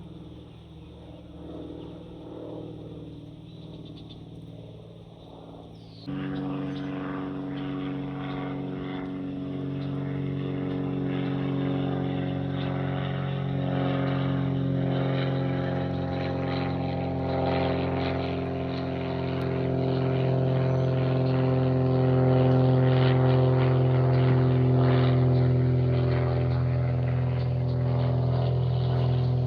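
Aircraft engine drone, steady and tonal, starting abruptly about six seconds in after a quieter hum and growing slowly louder as the aircraft comes closer.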